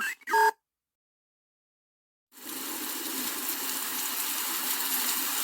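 Steady rain ambience sound effect, coming in suddenly about two seconds in after a stretch of dead silence.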